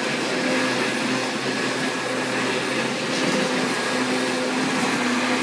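Lawnmower running steadily, a constant motor hum over a broad whirring hiss.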